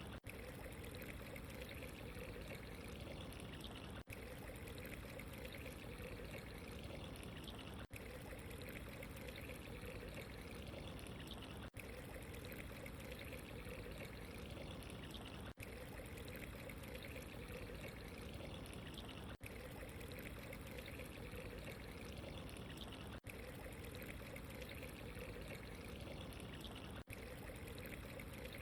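Steady running water, an even rushing trickle that is cut by a brief dropout about every four seconds.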